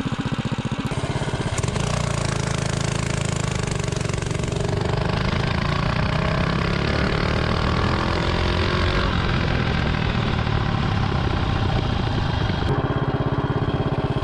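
Stage 2 Predator 212 Ghost single-cylinder engine on a mini bike, idling, then opened up about a second in for a full-throttle 0 to 30 mph acceleration run and held at speed. Near the end it drops back to a pulsing idle.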